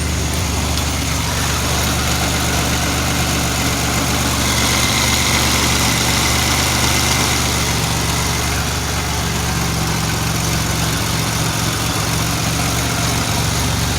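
2007 Pontiac Grand Prix GT's supercharged 3.8 L V6 idling steadily soon after a cold start, now running after a crank-no-start that was traced to the fuel pump relay and spark plugs.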